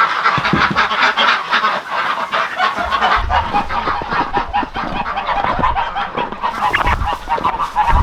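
A flock of domestic ducks and geese calling all together, quacks and honks overlapping in a dense, continuous chatter. A low rumble joins about three seconds in.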